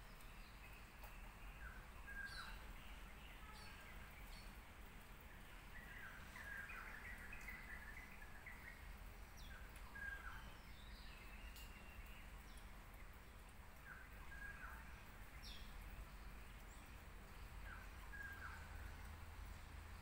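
Faint bird chirps and short calls, scattered throughout, with a busier run of chirping about six to eight seconds in, over a steady low hum.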